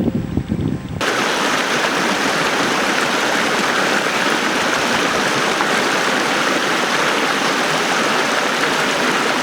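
Steady, even rush of flowing water, as from a stream or waterfall. It starts abruptly about a second in, after a brief low rumble of wind on the microphone.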